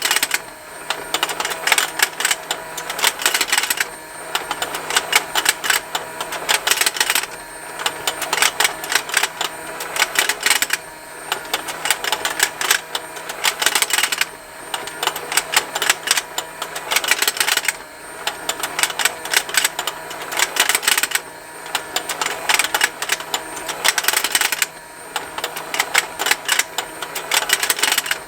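Plastic fishing-game toy running: its motor and gears tick fast and continuously, with a louder burst of plastic clicking about every three and a half seconds.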